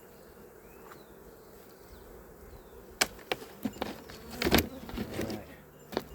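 Honeybees buzzing faintly around an open beehive, then a run of sharp knocks and clatters over the last three seconds, the loudest about four and a half seconds in.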